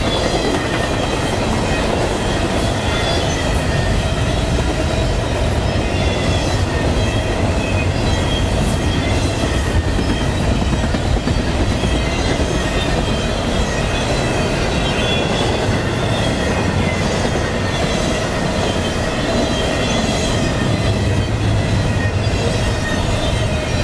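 Double-stack container well cars of a CSX intermodal freight train rolling steadily past, with loud steel wheel-on-rail rumble and clatter throughout. A wavering high-pitched squeal from the wheels runs over it.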